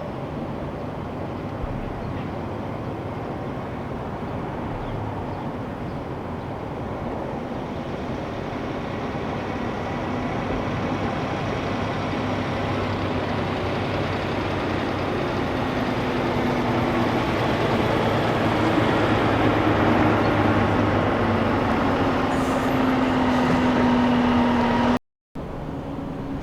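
Diesel big-rig truck engine and road noise growing steadily louder as the truck approaches, with a steady engine drone, then cut off abruptly near the end.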